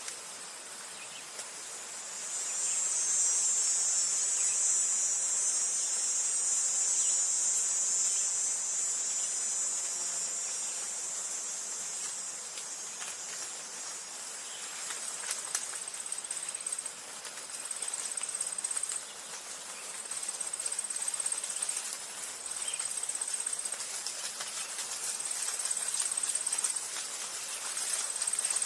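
Insects calling at a high pitch: a dense, continuous chorus for about ten seconds, then a high trill in regular bouts of a second or two, separated by short gaps.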